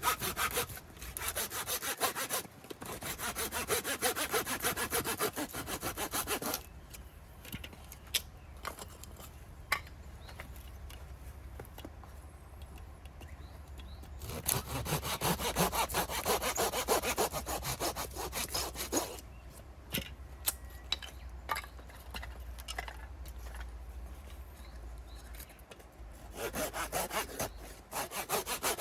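Hand saw cutting firewood in several bouts of rapid back-and-forth strokes, with quieter pauses between the bouts that hold a few scattered knocks and clicks.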